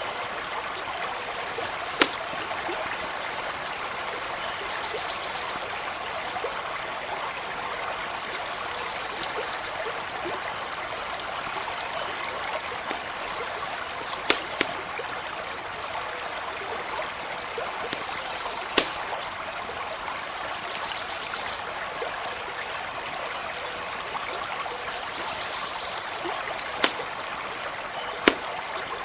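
Stream running steadily over stones, with about half a dozen sharp pops from a crackling campfire scattered through it.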